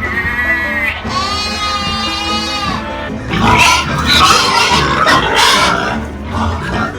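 Farm animal calls over background music: two long, arching, drawn-out cries in the first three seconds, then a loud stretch of harsh pig squealing.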